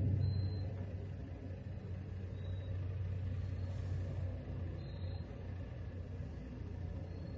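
A car driving, with a steady low rumble that is loudest at the start and eases off slightly.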